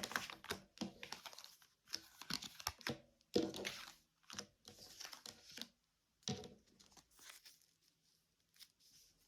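Tarot cards rustling and clicking as they are shuffled and drawn from the deck, in irregular bursts that thin out after about six seconds.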